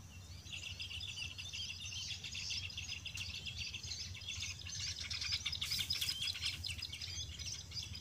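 Small birds chirping rapidly and continuously in a high register, starting about half a second in, over a steady low background rumble.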